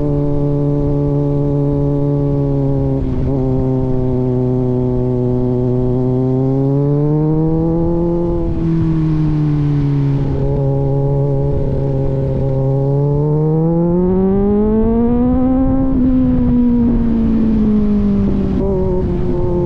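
Kawasaki Z900 inline-four engine running through an aftermarket AR exhaust while riding. It holds a steady pitch, climbs and eases back about halfway through, then climbs again to a higher peak and falls away near the end.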